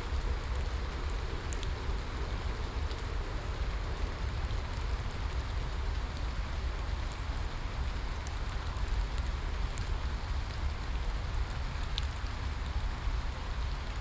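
Steady rain falling, with scattered sharp drop ticks over a constant hiss and a low rumble underneath.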